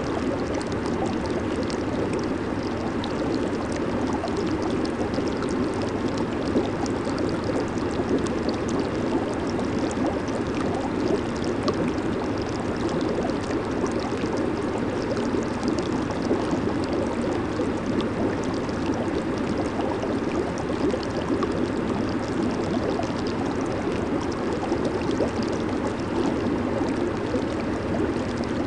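Jacuzzi water bubbling and churning steadily from its jets and air bubbles.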